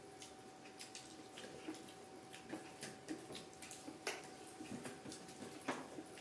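Close-miked eating sounds: a scattered string of small mouth clicks and chewing smacks, the sharpest about four and near six seconds in, over a faint steady hum.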